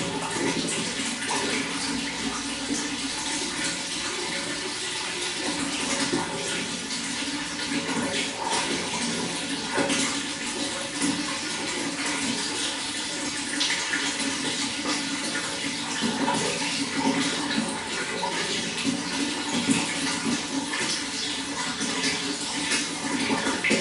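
Running water splashing steadily, a continuous rush with many small irregular splashes.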